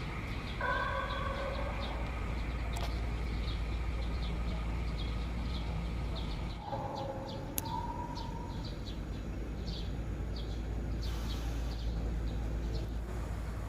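A blade of grass blown as a reed call, giving two held tones: one near the start and one in the middle. Small birds chirp repeatedly in short high notes throughout.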